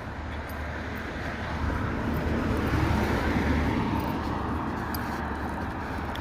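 A vehicle passing by: road noise that swells to a peak about three seconds in and then slowly fades, over a steady low rumble of wind on the microphone.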